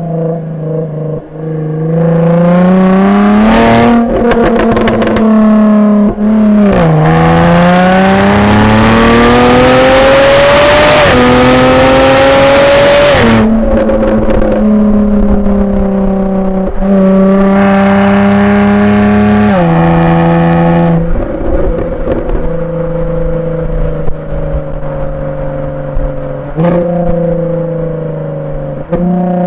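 2016 Jaguar F-Type V6 S's supercharged 3.0-litre V6 through its stock exhaust in Dynamic mode, accelerating through the gears: the engine note climbs, then drops in pitch at each of several upshifts, with a few sharp cracks from the exhaust around the early shifts. After about 20 s it settles into a steadier cruise.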